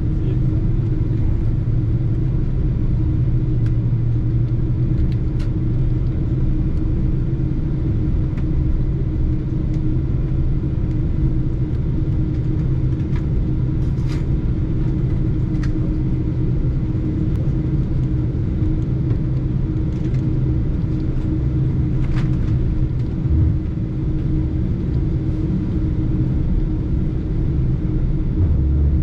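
Steady low rumble of a Boeing 747-8 airliner with its engines running, heard from inside the cabin, with a constant hum and a few faint ticks.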